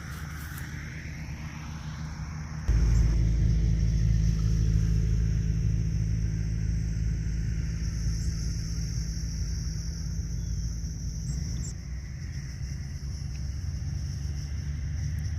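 A steady low rumble that jumps suddenly louder about three seconds in and eases back near the end, with a thin steady high hiss above it.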